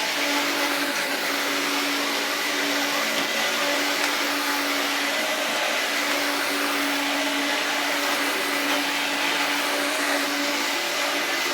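Hoover Turbopower 1 U2198 upright vacuum cleaner running steadily, its motor giving a constant hum under the rush of air.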